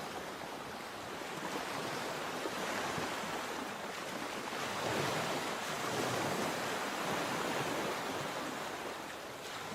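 Sea waves washing onto a shore, a steady rush of surf that swells and eases every few seconds.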